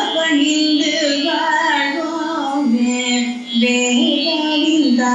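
A woman's solo voice singing a devotional song, with held notes that slide between pitches in an Indian classical style, and a short breath pause about three and a half seconds in.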